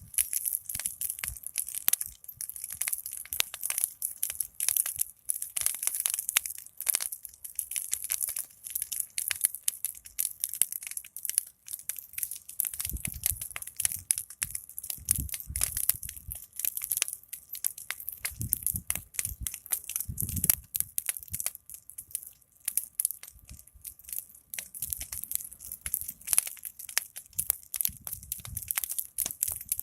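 A big wood fire crackling: a dense, irregular stream of sharp pops and snaps, with a few brief low rumbles from the burning pile now and then.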